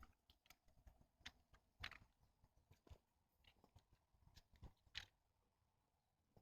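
Near silence with faint, scattered clicks and knocks.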